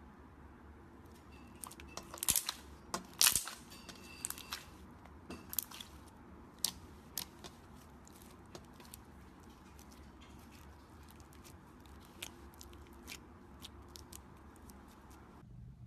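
Slime being worked by hand, giving a series of sharp crackling clicks and pops, densest in the first few seconds and sparser after.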